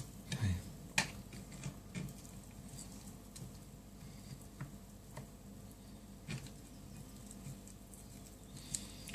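Cooked chicken thigh meat being pulled off the bone: faint, scattered soft sticky handling noises and small clicks, with a sharper tick about a second in.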